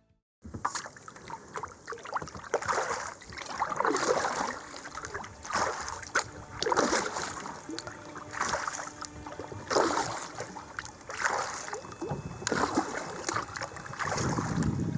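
Kayak paddle strokes dipping into and pulling through the water, alternating sides in a steady rhythm of about one stroke every second and a half, with water trickling off the blades between strokes.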